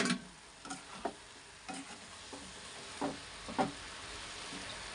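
Chopped vegetables sizzling in a hot kadai as they are stir-fried, with a few short knocks of the stirring utensil against the pan, the clearest about three and three and a half seconds in.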